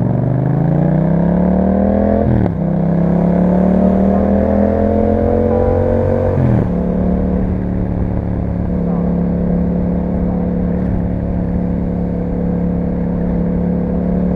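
A 2021 Yamaha MT-07's parallel-twin engine with an Akrapovic exhaust, accelerating hard. It upshifts about two and a half seconds in, pulls up through the next gear and upshifts again after about six and a half seconds, then settles into a steady cruise.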